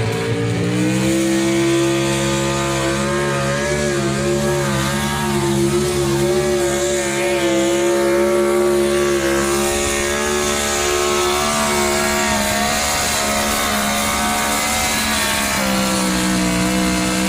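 Competition pulling vehicle's engine run at full throttle during a pull: the revs climb in the first second, hold high with a slightly wavering pitch, and fall away near the end.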